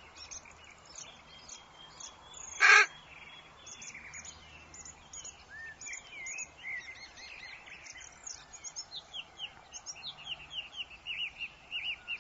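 Woodland birds chirping over a faint steady rush of wind, with one loud, harsh call about two and a half seconds in. From about nine seconds a bird repeats short falling chirps in a quick run.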